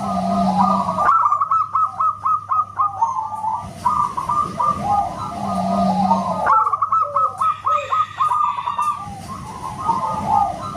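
Zebra dove (perkutut) singing loud, whistle-like phrases of rapid, clipped cooing notes, the same phrase coming round again about every five and a half seconds.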